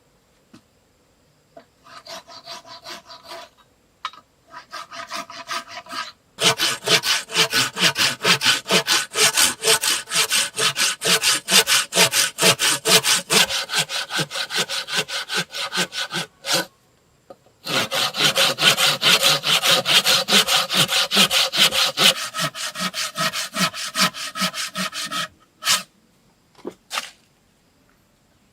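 Hand saw cutting through wood in quick, even back-and-forth strokes. It starts with a few light starting strokes, then saws hard and steadily, pausing for about a second a little past halfway. It ends with a few separate knocks.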